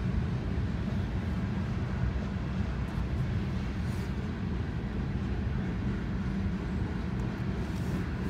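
Boxcars of a long freight train rolling past, heard from inside a car's cabin as a steady low rumble with a few faint clicks.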